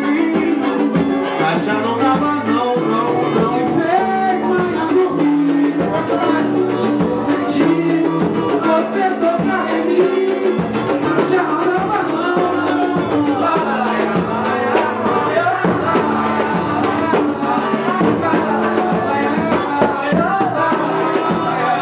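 Brazilian pagode song played by a band: singing over plucked strings and percussion at a steady, loud level.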